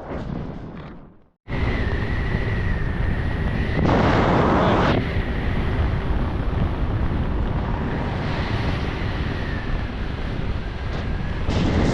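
Strong wind buffeting the microphone: a loud, steady rushing noise with a faint thin whistle through it, louder for about a second around the middle. It cuts out abruptly for a moment about a second in.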